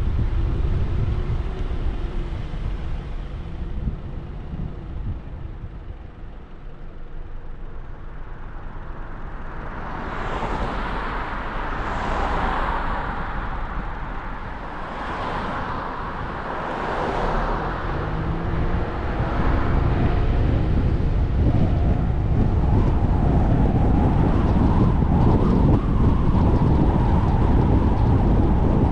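Road and wind noise of a car driving: a steady low rumble with hiss that fades briefly about six seconds in, then four short rushing sounds in the middle, and a louder, even rumble through the last part.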